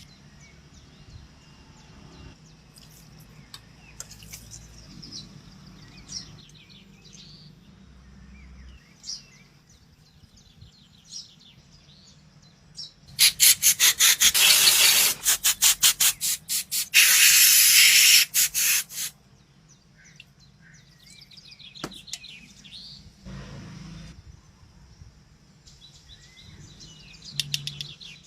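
Birds chirping now and then, and about halfway through a loud hiss in rapid bursts, about four a second, which then runs steadily for two seconds before cutting off.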